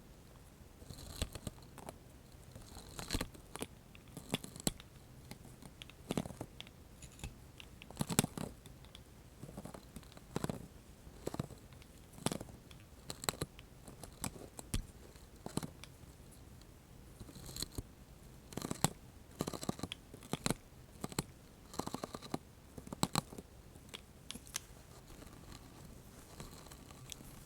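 Close-miked ASMR 'spiderweb' trigger: irregular crisp crackles and sticky clicks in clusters, with short quiet pauses between them.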